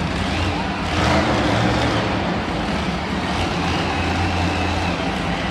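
Monster truck engine running loud and steady in an arena, swelling briefly about a second in.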